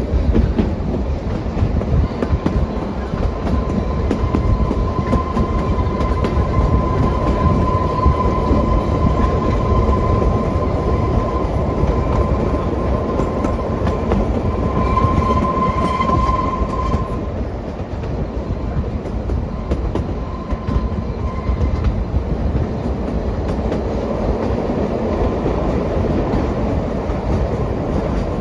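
Kalka–Shimla narrow-gauge toy train running on its track: a steady rumble with the rapid clickety-clack of wheels on rail joints. A thin, steady high squeal, typical of wheels squealing on curves, rides over it for much of the first half, sharpest around the middle, and comes back briefly a few seconds later.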